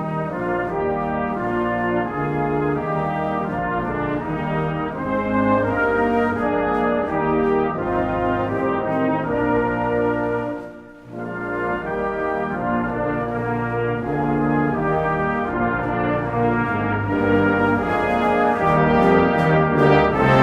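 Brass ensemble playing slow, sustained chords, with a brief break between phrases about eleven seconds in.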